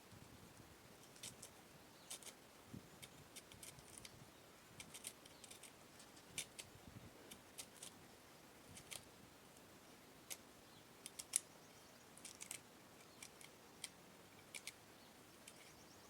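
Faint, irregular light clicks and taps, a few a second at most, as of small kitchen utensils or ingredients being handled while a papaya salad is made.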